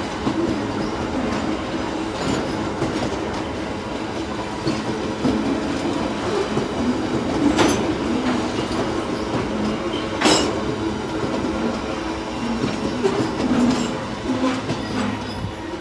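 Freight train wagons rolling past with a steady rumble and a few sharp clacks of wheels striking rail joints, fading away near the end.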